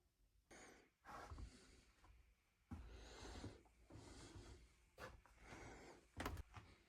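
Near silence with a handful of faint breaths close to the microphone, about six in all, some short and some drawn out for most of a second.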